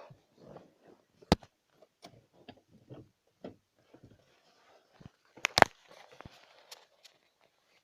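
Scattered light clicks and knocks with no engine running, and two sharp, loud clicks, one about a second in and one near six seconds.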